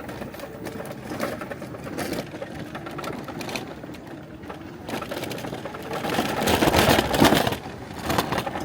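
Irregular crunching and rustling of people moving along a woodland path, busiest and loudest about six to seven and a half seconds in.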